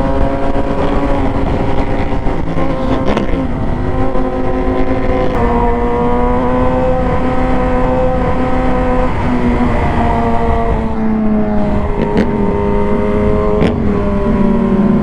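Yamaha R6 inline-four sport-bike engine running at freeway cruising speed under heavy wind noise, its pitch dipping and rising a little a few times. There are a couple of sharp knocks near the end as the bike rides over bumps in the road.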